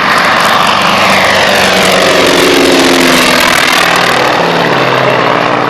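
North American T-28 Trojan's radial engine running loud as the racing aircraft flies past low, its pitch falling as it goes by about halfway through.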